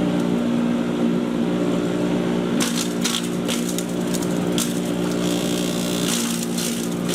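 Patriot 1.5-HP electric chipper shredder's motor running with a steady hum. From about two and a half seconds in, irregular crackling and snapping join it as material goes through the cutters.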